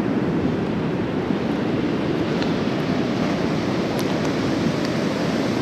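Steady wash of ocean surf on a beach.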